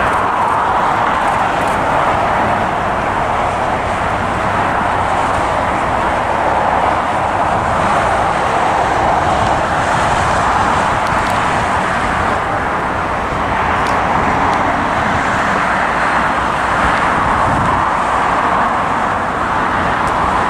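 Steady jet-engine noise from an airliner taking off, holding loud and even throughout with slight swells.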